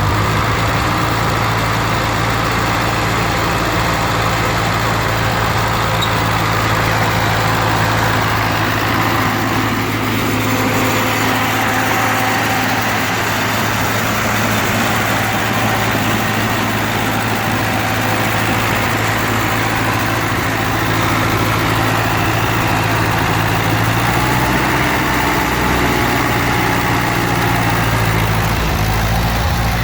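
Ford 9N tractor's four-cylinder flathead engine running steadily, with a low even note. It is running on newly fixed ignition points, and its carburettor is not yet adjusted.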